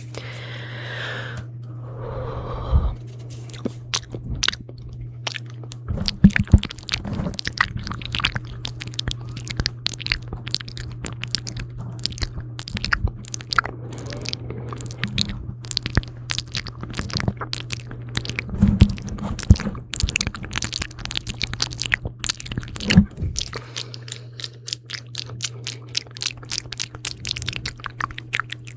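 Close-miked ASMR mouth sounds: a dense, irregular run of wet, sticky clicks and smacks of lips and tongue.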